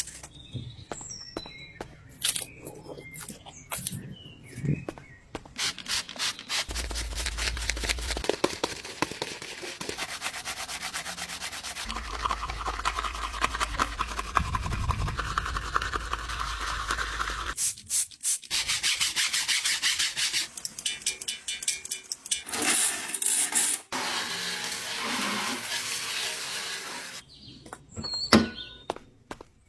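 Scrubbing and rubbing on a surface, a fast rasping texture of many quick strokes, in several separate stretches that start and stop abruptly.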